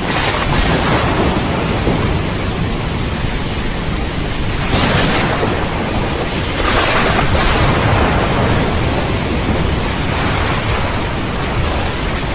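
Steady heavy rain with thunder rumbling low beneath it, swelling louder about a second in and again around five and seven seconds in.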